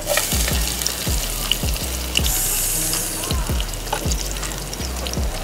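Chopped garlic and chillies dropping into hot oil in a small pan and sizzling steadily, starting abruptly at the outset, over background music with a steady beat.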